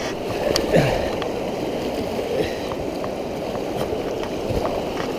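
Fast, high river water rushing steadily around a kayak being paddled across the current, with a few faint splashes.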